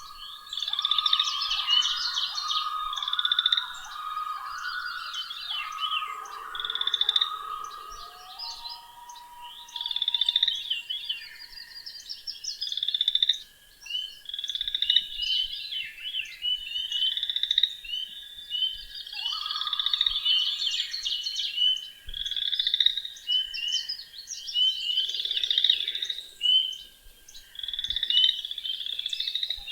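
Frogs and songbirds calling together in a spring chorus. Many bird songs overlap high up throughout, and a lower repeated trilling call is most prominent in the first several seconds and again briefly past the middle.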